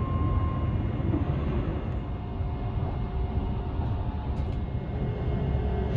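Tobu Spacia limited express train running, heard inside the passenger car: a steady low rumble of wheels on rail, with a few faint steady tones above it.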